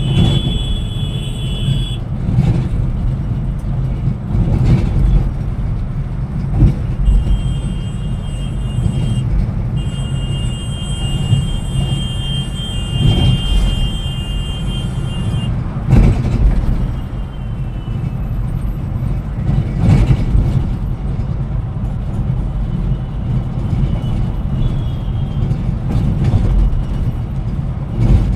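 Scania Metrolink multi-axle coach on the move: a steady low rumble of engine and road noise, with a few sharp thumps. A high, thin tone sounds on and off during the first half.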